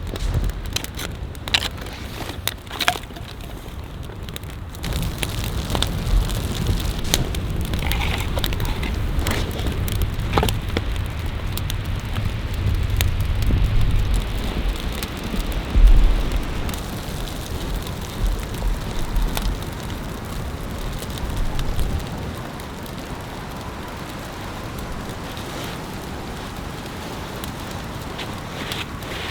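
Small, freshly lit kindling fire crackling, with frequent sharp snaps and pops over a steady hiss. A low rumble runs under it through the middle and fades out around two-thirds of the way in.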